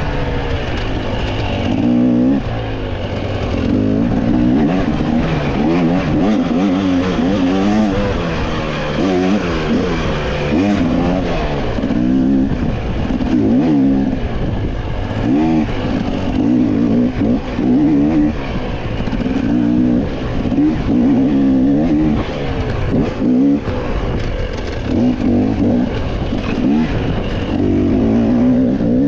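Off-road dirt bike engine revving up and down again and again as it is ridden hard along a trail, its pitch rising and falling every second or two.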